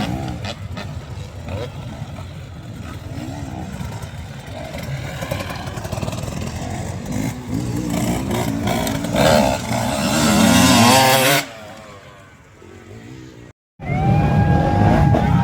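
Motocross bike engines revving as the bikes race past. The pitch rises and falls with each throttle change, and the loudest bike passes about ten seconds in. Near the end the sound breaks off for a moment and the engines start again.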